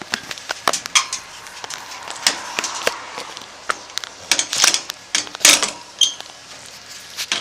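A dog's metal chain clinking and rattling in irregular sharp knocks as it is handled, loudest about four and a half to five and a half seconds in.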